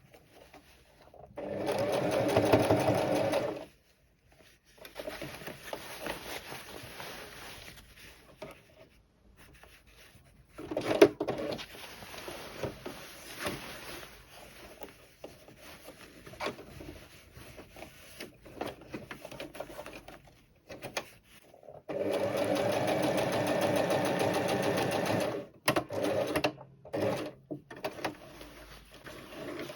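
Electric sewing machine stitching in two steady runs, a short one of about two seconds near the start and a longer one of about three seconds later on. Quieter, uneven machine and handling sounds fill the gap between them, with one sharp click about eleven seconds in.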